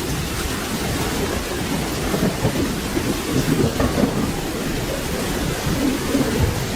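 Steady rain with a low rolling rumble of thunder underneath, even in level throughout with no sharp crack.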